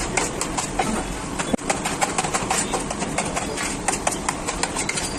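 Busy, noisy background full of quick sharp clicks and clatters, with a brief dropout about a second and a half in.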